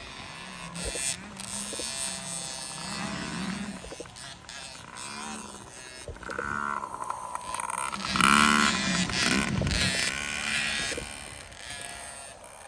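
Dirt bike engines on a motocross track, revving up and down through the gears as the bikes ride the course, loudest about eight seconds in.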